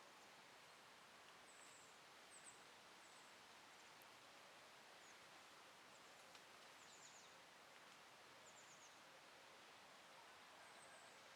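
Near silence of an autumn forest: a faint even hiss, with distant, short, high-pitched bird chirps coming every second or two.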